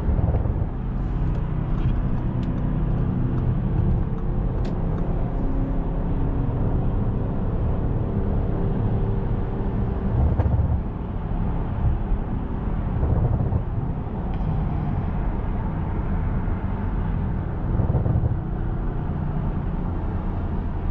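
Audi S7 driving in traffic: the twin-turbo engine's steady hum under road noise, swelling briefly a few times as the throttle changes.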